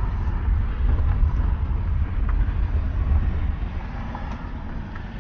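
Low, gusty rumble of wind buffeting the microphone, easing off near the end.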